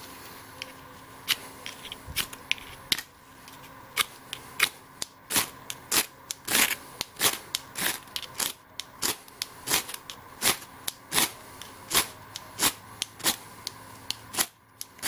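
Ferro rod struck over and over with a striker, a short sharp scrape roughly every half second to second, throwing sparks into a bird's-nest tinder bundle that has not yet caught.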